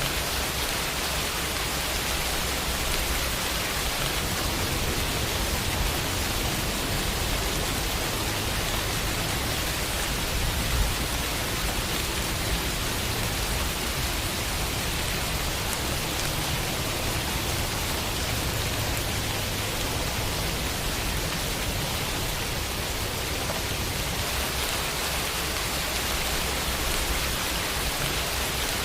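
Steady rain falling and pattering on a window, an even hiss with a low rumble underneath and one slightly louder drop or tap about eleven seconds in.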